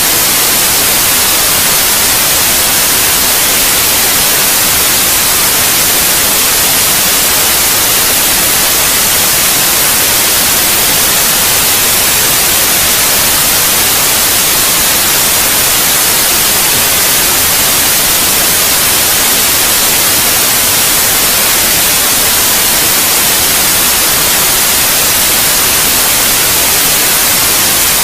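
Steady white noise: an even, unchanging hiss, heaviest in the high end, played continuously as a sleep aid for babies.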